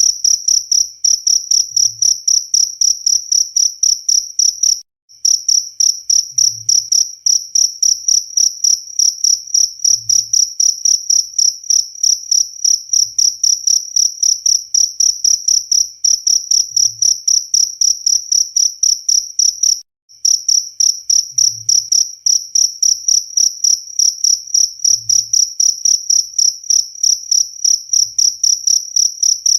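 Cricket chirping loudly, a high steady trill in rapid even pulses about three a second. It cuts out briefly twice, about 5 and 20 seconds in.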